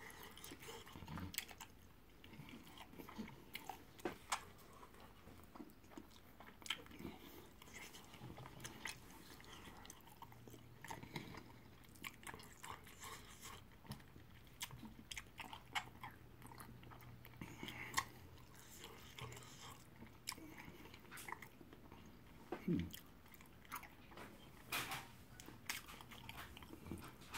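Close-up chewing of yam fufu and egusi soup eaten by hand: faint, irregular mouth clicks and smacks.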